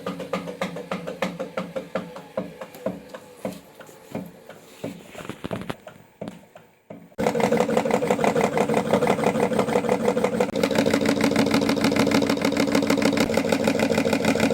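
Hotpoint-Ariston washing machine spinning with a fast rhythmic knock. The knock slows and fades over the first seven seconds, then comes back loud and steady with a hum about seven seconds in. The knock comes from the drum pulley wobbling on a loose, untightened bolt.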